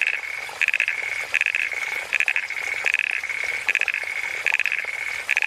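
A tree frog calling over and over, about eight calls evenly spaced. Each call is a quick rattling burst of clicks followed by a short, fainter steady tone.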